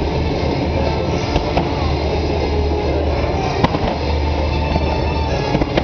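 A dense, continuous fireworks barrage: launches, crackling and bursts running together into a steady rumble, with a few sharp bangs standing out, over the show's music.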